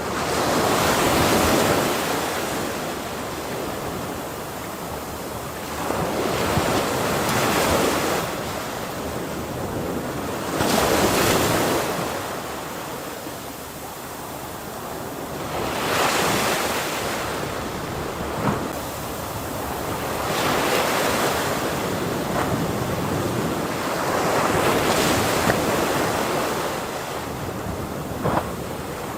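Ocean waves breaking on a shore, surging and receding about every four to five seconds, with some wind noise on the microphone.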